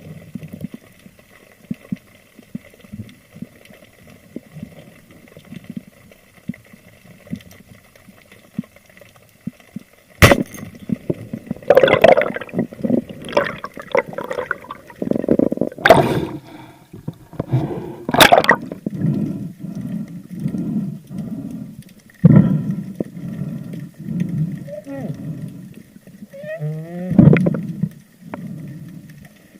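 Water sloshing and gurgling around the camera, with a sharp click about ten seconds in. Before the click there is only a faint low murmur; after it comes loud, uneven sloshing with a few short pitched squeaks near the end.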